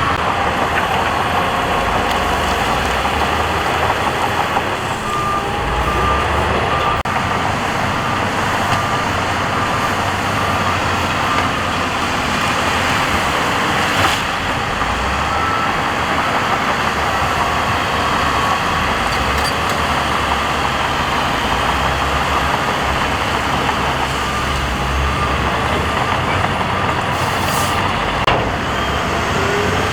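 Heavy diesel earthmoving machinery running steadily, with a reversing alarm beeping in a repeating series of short tones. A single sharp knock about halfway through.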